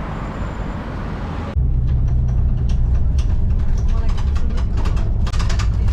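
Road and engine noise inside a moving car with faint voices. It starts as a steady hiss, then about a second and a half in cuts abruptly to a louder, steady low rumble.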